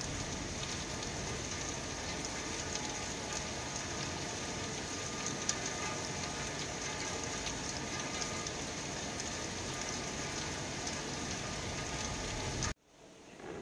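Heavy rain falling steadily, an even hiss with scattered sharp drop ticks. It cuts off abruptly about a second before the end.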